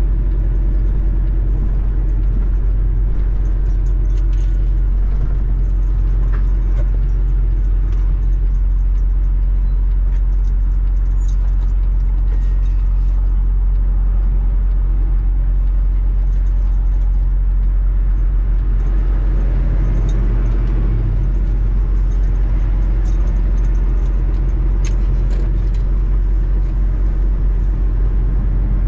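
Steady low drone of a semi truck's diesel engine running, heard from inside the cab, with faint light rattles over it.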